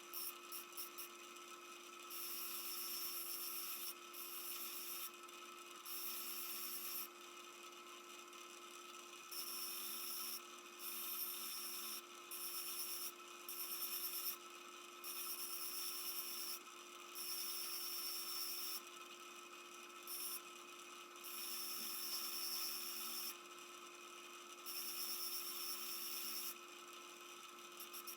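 Repeated scraping strokes of an abrasive or file worked by hand on metal, each lasting one to two seconds with short pauses between, over a steady low hum.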